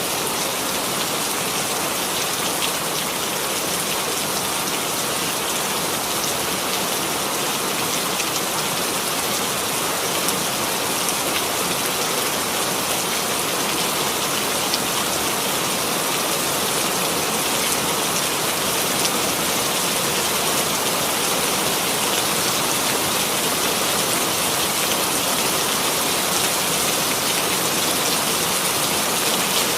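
Steady rain falling, a dense even hiss of drops on a surface with fine individual patter.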